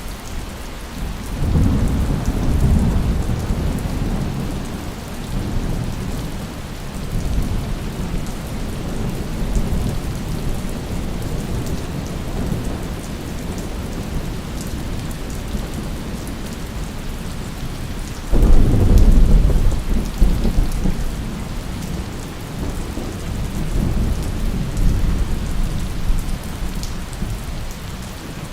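Steady heavy rain with rolling thunder: a long low rumble about two seconds in that fades over several seconds, and a sharper, louder clap about eighteen seconds in that rumbles on. A few smaller rumbles come near the end.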